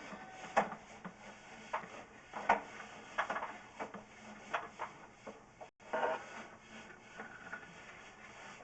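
Irregular knocks, clatter and rubbing from a drain inspection camera's push cable and reel being handled, with no steady machine sound.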